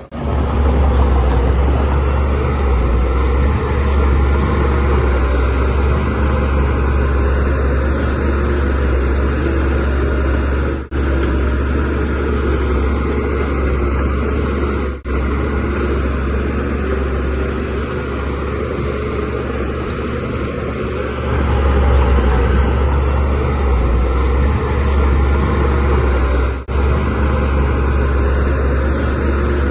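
Shantui DH17C3Pro bulldozer's diesel engine running steadily under load while pushing soil, with a deep low drone; it gets louder about two-thirds of the way through. The sound cuts out for an instant three times.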